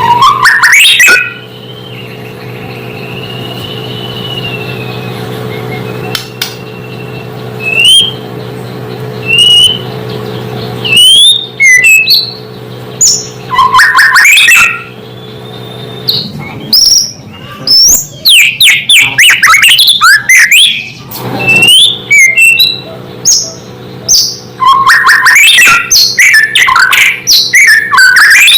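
White-rumped shama (murai batu) singing: soft drawn-out whistles at first, then from about eleven seconds in loud, rapid bursts of varied whistles and chattering trills.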